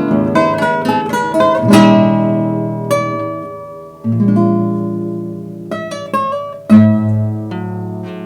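Guitar duet playing: a quick run of plucked notes over the first two seconds, then slower chords left to ring and die away, the loudest struck between six and seven seconds in.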